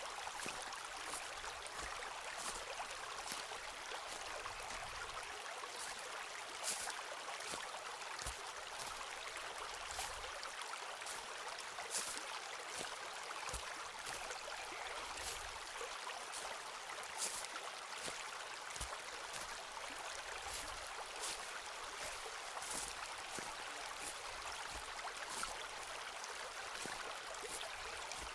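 Footsteps crunching irregularly on a forest path over a steady rush of a flowing stream.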